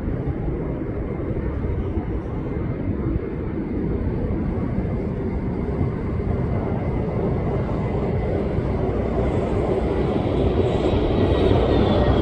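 Jet airliner on its landing approach: a deep engine rumble that grows steadily louder as it nears, with a faint high whine coming in near the end.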